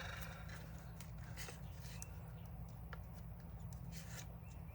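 Scattered light clicks and taps of the plastic parts of a DeWalt DCD780 cordless drill being handled and pressed together during reassembly, over a steady low background hum.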